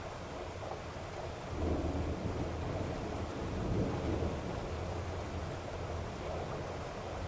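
Thunderstorm: steady rain with rolling thunder that swells about two seconds in and again about four seconds in.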